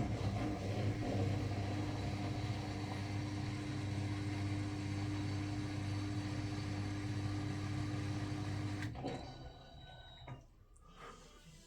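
Miele front-loading washing machine running at a steady speed in its final spin, a constant motor hum with a steady whine. It cuts off abruptly about nine seconds in.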